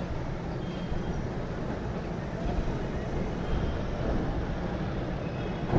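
Steady low rumble and noise of a moving vehicle, with no single event standing out.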